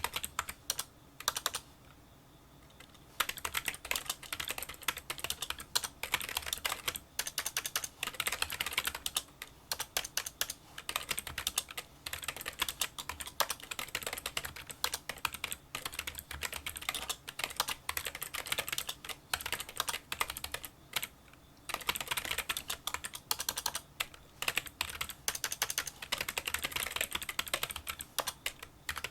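Touch typing on a Kinesis Freestyle Solo split keyboard with membrane key switches: a rapid stream of small clicks. It pauses for about a second and a half near the start and briefly about three quarters of the way through.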